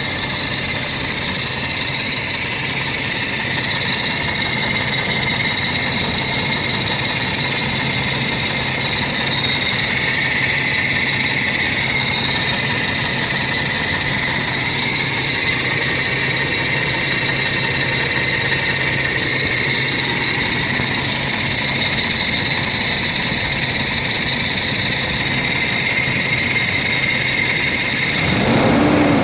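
Toyota 22R-E inline four-cylinder engine idling steadily while air is burped from its cooling system, with a steady high-pitched whine over the running. Near the end it is revved once, the pitch rising and falling.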